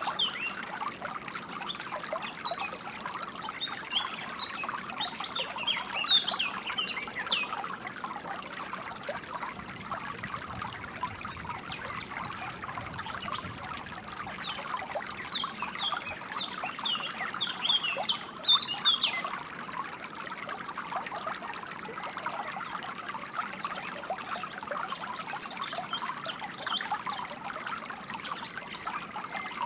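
Small stream trickling and splashing steadily, with birds chirping over it in short bursts, busiest near the start, about halfway through and near the end.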